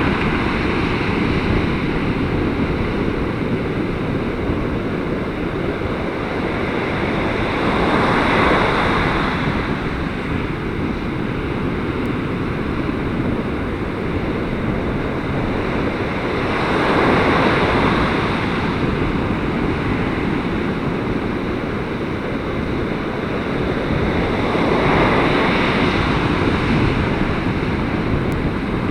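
Surf breaking on a beach in a gale, with strong wind buffeting the microphone. Waves swell and wash in roughly every eight seconds over a constant roar of wind and water.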